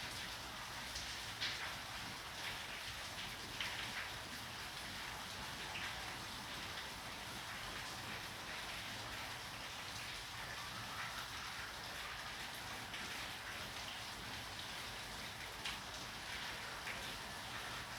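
Steady rain falling, with a few louder individual drops striking a surface now and then.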